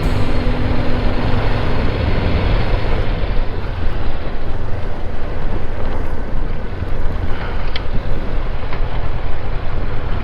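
Wind noise buffeting the microphone of a Honda NX500 motorcycle at road speed, with the bike's engine and tyre noise blended underneath as a loud, steady rush.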